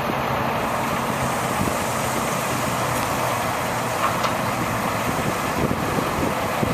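Engine of a 2002 International mechanics truck running steadily at idle.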